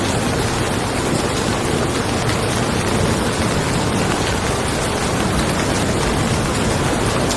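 Steady rain falling on a car, an even hiss of drops with no break or swell.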